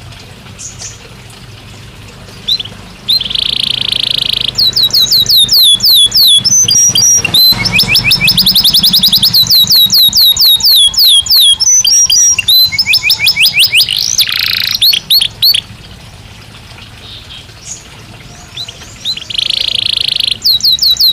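Belgian canary singing: long phrases of fast repeated downward-sweeping notes and buzzy rolls, breaking off for a few seconds about three-quarters through and starting again near the end.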